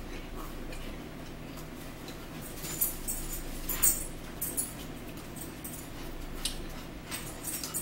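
Eating sounds: mouth chewing and smacking on food, with a few short sharp clicks scattered through, over a steady low room hum.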